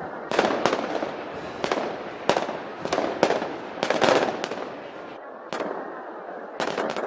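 A rapid, irregular series of sharp gunpowder bangs, with a short lull about four and a half seconds in, over a crowd talking.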